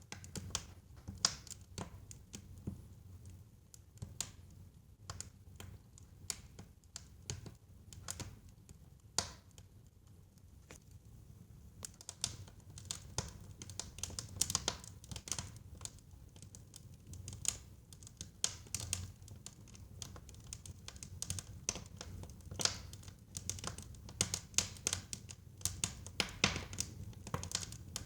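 Wood fire burning in a fireplace: irregular crackles and sharp pops over a low steady rumble of the flames, the crackling growing busier in the second half.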